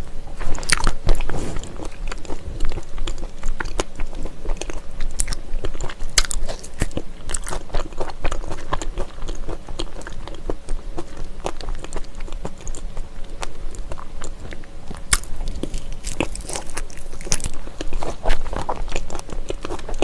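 A person chewing dried persimmon up close on a clip-on microphone. Irregular wet mouth clicks and smacks run throughout.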